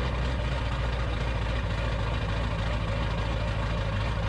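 A vehicle engine idling steadily, with an even low hum.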